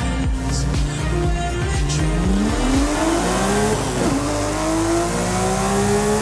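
Music with a steady beat fading out, then the Porsche Speedster's flat-six engine accelerating hard, revs rising through a gear, dipping briefly at an upshift about four seconds in and climbing again.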